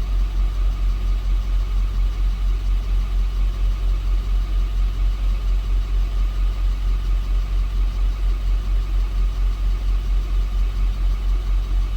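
Duramax diesel engine idling steadily, its sound pulsing evenly; it sits at normal idle with the forced DPF regeneration not yet started.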